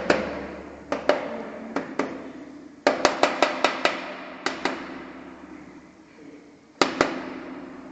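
A woodpecker pecking hard in irregular bouts: single knocks and pairs, with a quick run of about seven a third of the way in. Each knock leaves a ringing tone that fades away.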